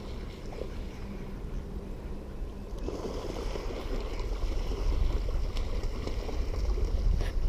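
Creek water splashing and sloshing, getting louder about three seconds in, with a low rumble underneath.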